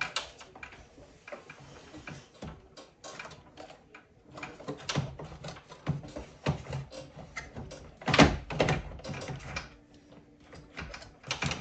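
Irregular clicks, knocks and scrapes of parts being handled as the mini-split air handler's controller box is swung back up into place, with one louder knock about eight seconds in.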